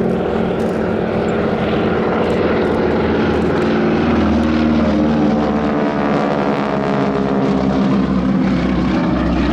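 Two Super Stearman biplanes flying past, their radial engines and propellers running loud. The propeller tips go supersonic and give a rasping edge to the sound. The sound swells to its loudest midway and falls in pitch as they go by.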